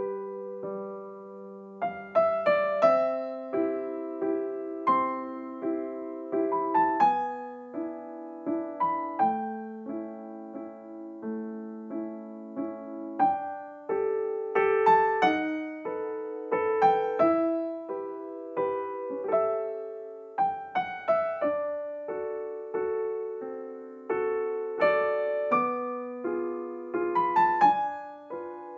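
Background piano music, a gentle melody of plucked-sounding notes over sustained lower notes.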